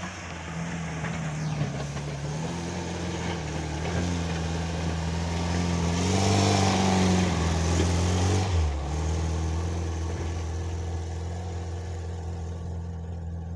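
Homemade mini tractor's engine running under load while it pushes snow with an angled blade. The engine note rises and grows louder about six seconds in, then drops back abruptly about two and a half seconds later.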